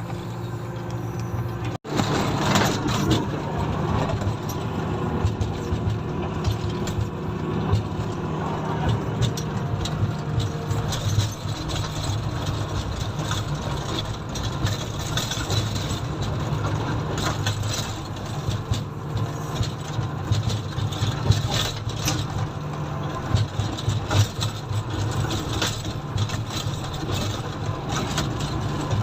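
Komatsu motor grader's diesel engine running steadily, with scattered rattles and clicks over the low engine hum. The sound cuts out for an instant about two seconds in.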